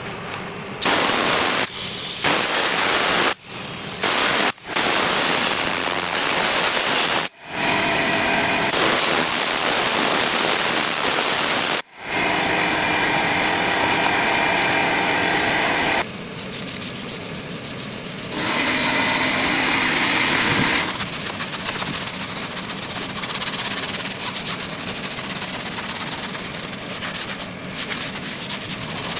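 Loud hissing spray from a cleaning tool, started and stopped in several short bursts over the first twelve seconds, then running steadier and a little quieter with a faint motor hum under it.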